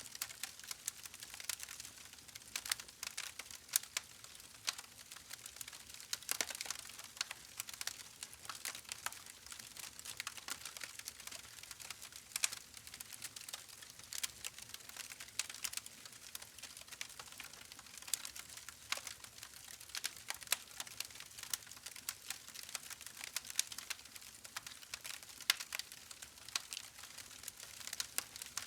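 Campfire crackling: irregular sharp pops and snaps from burning wood over a soft steady hiss.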